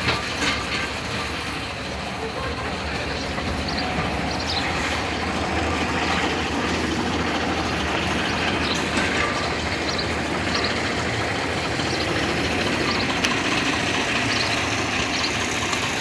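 Miniature railway train running, heard from a passenger carriage behind the engine: a steady running noise of wheels on rails and the engine, with a few faint ticks.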